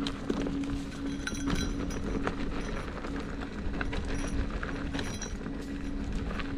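Electric unicycle riding over a rough trail: a steady motor hum under scattered clicks, rattles and knocks from the tyre and gear over rocks and gravel, with a low rumble throughout.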